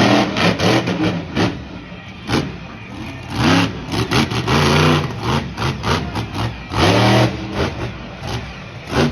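Monster truck engine revving hard in repeated bursts, its pitch rising and falling, with short sharp cracks between the revs.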